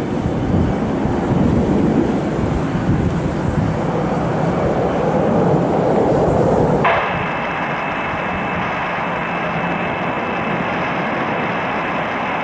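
Jet airliner engine noise, a steady rushing sound; about seven seconds in it cuts abruptly to a steadier, slightly quieter engine sound with a faint high whine.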